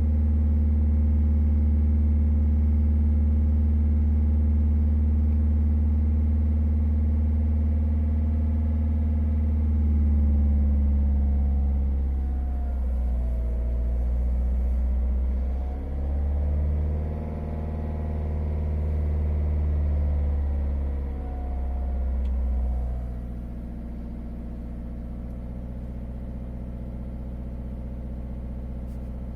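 Citroën C4 Grand Picasso's 1.6 HDi turbodiesel engine held at about 2,000 rpm. The revs then drop and rise again a few times before it settles back to a quieter idle, about two-thirds of the way through.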